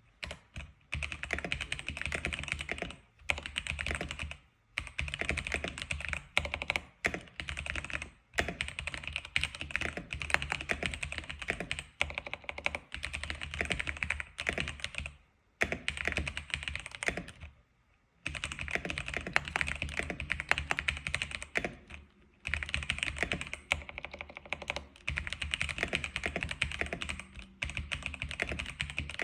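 Typing on an X87 keyboard: fast, continuous runs of keystrokes broken by a few short pauses of under a second.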